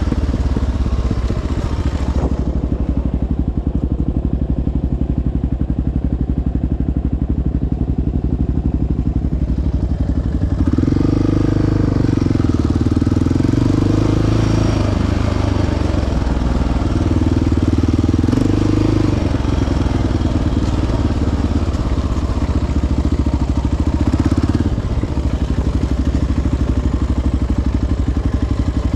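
Quad ATV's single-cylinder four-stroke engine running while riding a trail, its note rising and falling with the throttle and growing louder about a third of the way in.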